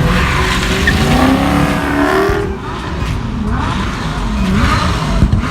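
A car engine revving hard, its pitch climbing steadily for about two and a half seconds, then several shorter revs up and down.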